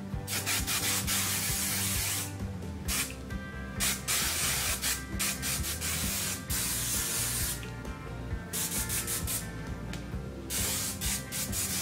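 Aussie hairspray sprayed over a styled wig in a series of hissing bursts, some short and a few lasting two seconds or more.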